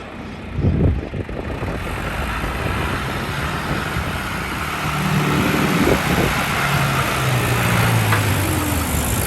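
John Deere 2750 tractor's diesel engine running under way, with a short low thump about a second in. It grows louder from about five seconds in, its pitch shifting slightly up and down.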